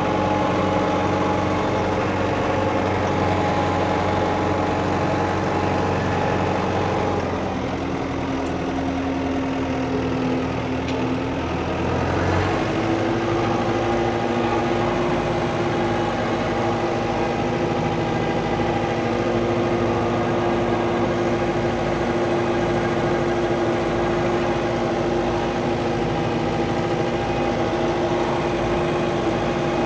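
Old farm tractor's diesel engine running steadily; its speed dips a little about seven seconds in, then rises to a higher steady speed about twelve seconds in.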